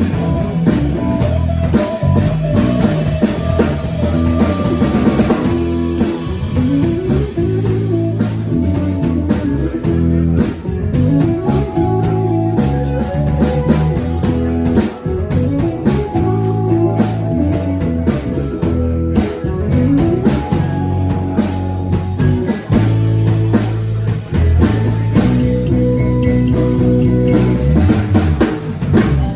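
Instrumental band music: electric guitar over a drum kit and bass.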